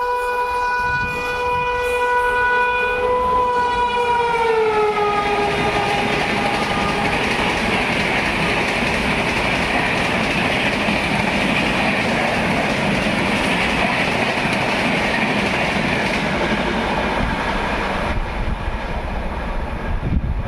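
Indian Railways electric locomotive horn sounding one long note that drops in pitch as the train passes at speed, followed by the steady rush and clatter of its coaches running by.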